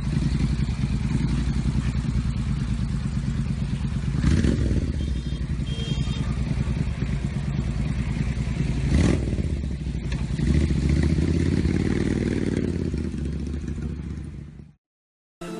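Carberry 1000 cc twin-cylinder motorcycle engine, built from two Royal Enfield 500 cc cylinders, running with a fast, even exhaust beat. It is revved up and back down about eleven seconds in, then fades out near the end.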